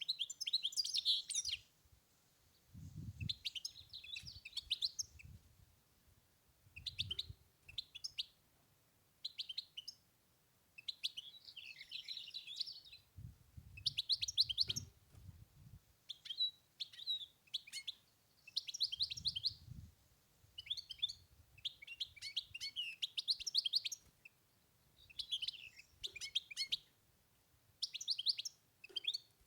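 European goldfinch singing: short phrases of fast, twittering notes with brief pauses between them. A few low rumbles sound underneath.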